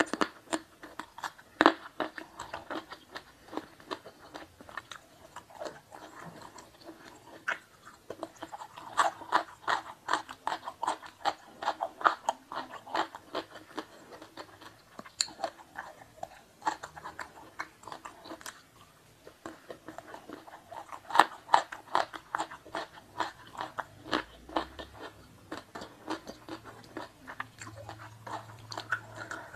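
Close-miked chewing and crunching of food, with bouts of quick crunchy bites separated by short pauses.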